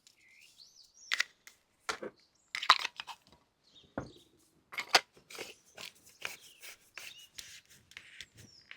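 Irregular crunching and knocking, a dozen or so sharp short sounds, the loudest a little under three seconds in, with birds calling.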